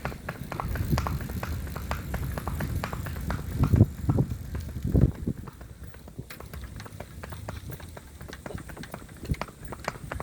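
Marwari mare's hooves clip-clopping on a road at a brisk, uneven rhythm over a low rumble, with a couple of heavier thumps around the middle.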